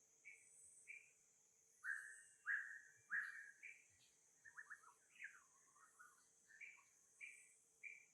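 A run of short, high chirping animal calls, some falling in pitch, the loudest three coming close together about two to three seconds in, over a steady high hiss.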